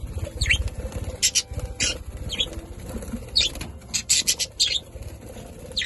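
Budgerigars chirping: a quick run of short, sharp, high calls, with a low fluttering rumble underneath.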